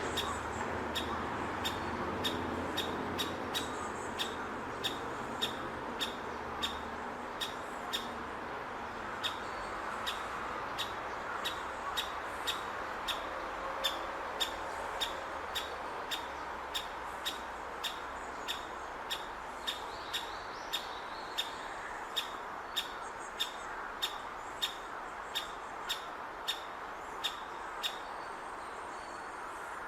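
Great spotted woodpecker nestling calling from its nest hole: a long, steady run of short, sharp calls, about one or two a second. This is a hungry chick begging while it waits for a parent to bring food. A steady background hiss lies underneath.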